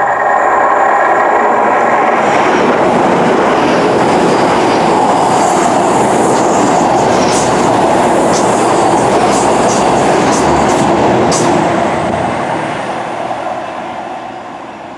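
LNER Class 800 Azuma bi-mode train, on diesel power, passing through the station at speed: a loud, steady rush of wheels on rail with a run of sharp clicks in the middle. It fades over the last few seconds as the train draws away.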